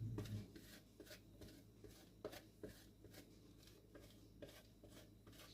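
Cheese being grated on a grater: faint, even scraping strokes, about three a second.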